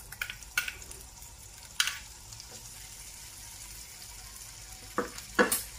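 Small peeled shrimp sizzling steadily as they fry in oil and butter in a frying pan, with a few sharp knocks against the pan, the loudest near the end.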